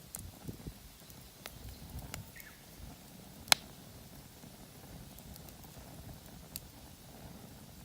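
Campfire of damp, poorly burning firewood in a mesh fire stand: sparse crackles over a low rumble of flame, with one sharp pop about halfway through.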